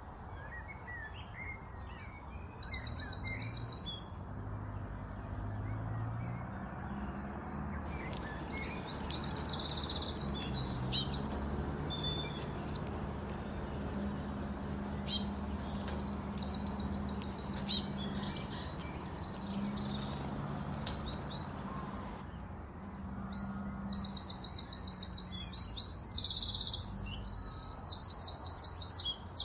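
Several small songbirds chirping, with short bursts of rapid trills that grow louder and busier near the end.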